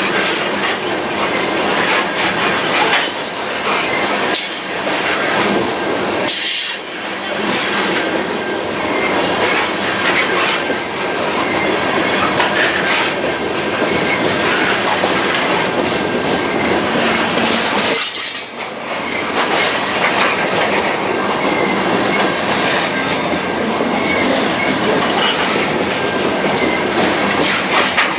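Freight train of covered grain hoppers rolling past: a steady rumble with the clickety-clack of wheels over rail joints and a thin, steady wheel squeal.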